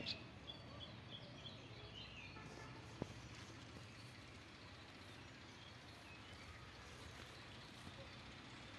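Near-silent open-air background with a few faint bird chirps in the first couple of seconds and a single sharp click about three seconds in.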